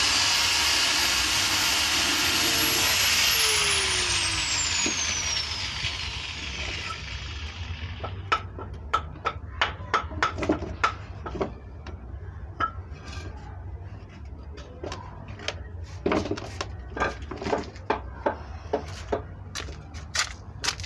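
A high-speed power tool motor runs with a high whine, is switched off a few seconds in and winds down, its pitch falling as it slows. Then come many short, sharp clicks and knocks, irregularly spaced.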